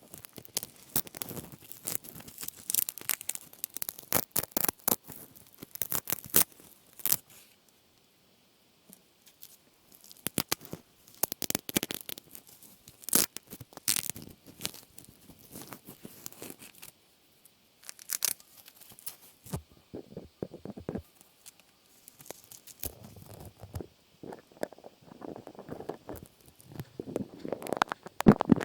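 Close-miked crackling and tearing sounds made by handling something by hand: dense sharp clicks in bursts, with a short break about eight seconds in and softer rustling near the end.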